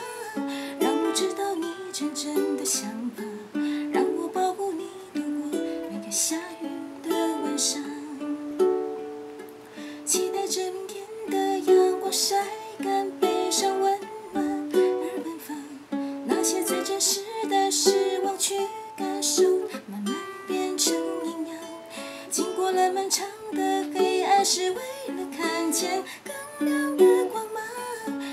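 Ukulele strummed and picked in a steady rhythm in a small room, with a quiet sung melody over it.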